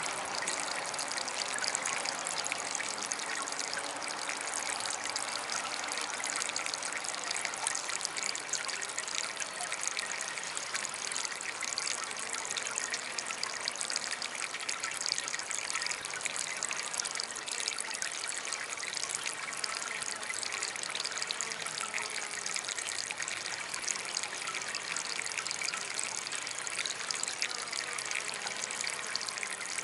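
Small DIY garden water fountain trickling and splashing steadily, with many tiny drips and splashes through it.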